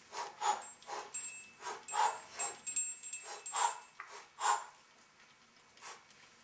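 A run of about ten short barks over four and a half seconds, then a pause.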